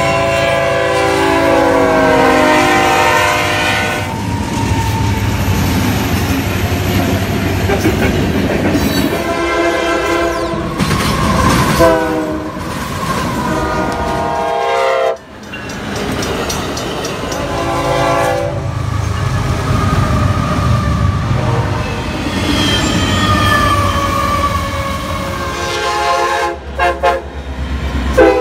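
Union Pacific diesel freight trains passing, their locomotive air horns sounding in long chords four times, over the low running of the engines and the clack of wheels over rail joints. The sound changes abruptly about halfway through and again near the end, where separate passings are cut together.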